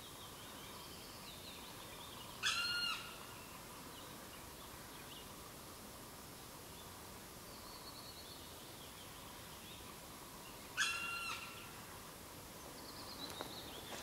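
An unidentified forest bird gives a drawn-out call of even pitch twice, about eight seconds apart.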